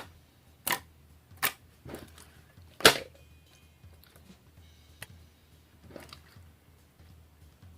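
Slime being squeezed and pressed by hand, giving crunchy pops and snaps: about five sharp snaps in the first three seconds, the loudest about three seconds in, then a few fainter clicks.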